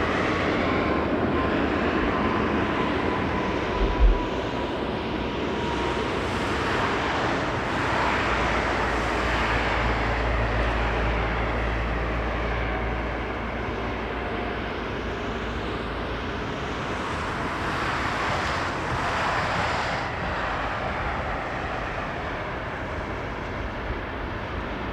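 Passenger jet airliner's engines passing near the runway, a steady broad rush of engine noise with a faint whine that slowly falls in pitch and a deeper rumble near the middle. A short thump about four seconds in.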